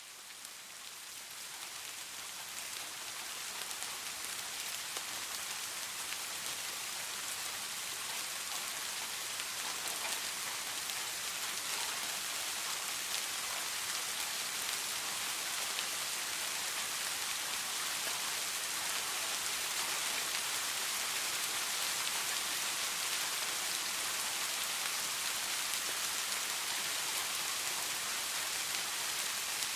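Steady soft rain falling, a dense even patter of raindrops. It fades in over the first few seconds, then holds steady.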